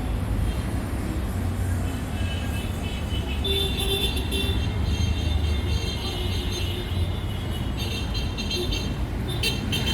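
Road traffic rumbling steadily, with music playing over it from about two seconds in.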